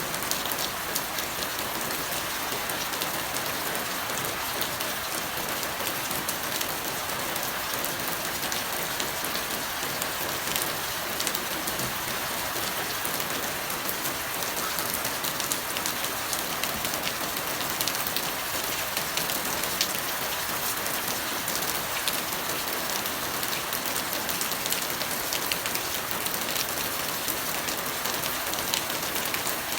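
Steady rain falling on a surface, a dense even hiss with many small individual drop impacts ticking through it.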